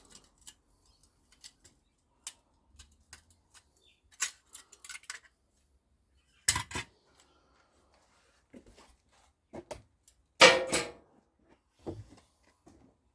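Scattered metallic clinks and knocks of metal pieces being handled, with a few louder knocks and the loudest about ten seconds in.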